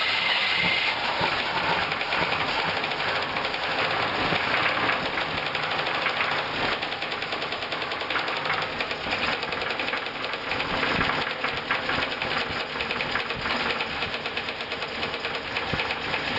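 1965 Buick Skylark's 300 V8 engine running, with a fast, even ticking knock from the top end. It is the engine's first run in 20 years, and the owner suspects a stuck lifter.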